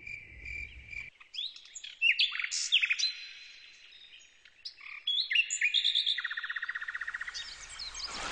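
Birds calling, likely a jungle ambience track: a string of short chirps and whistled notes, quieter for a moment in the middle, then a fast trill about six seconds in.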